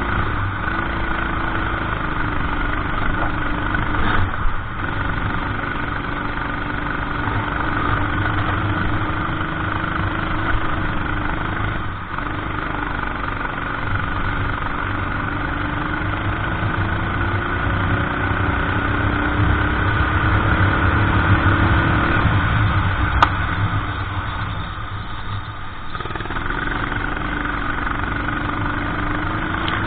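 Go-kart engine running hard through a race lap, its pitch climbing slowly along the straights and falling back when the throttle is lifted for corners, several times, with the longest dip about three quarters of the way through.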